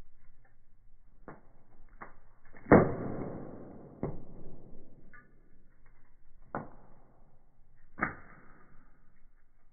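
Firewood burning in a fireplace, crackling with about six separate sharp pops. The loudest comes a little under three seconds in and trails off slowly.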